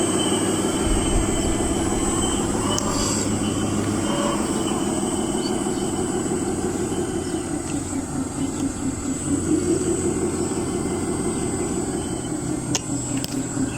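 Electric motor and hydraulic pump of a 1:8 scale RC hydraulic construction model running steadily, its hum sagging in pitch and recovering a couple of times as the hydraulics take up load, with a thin high whine over it.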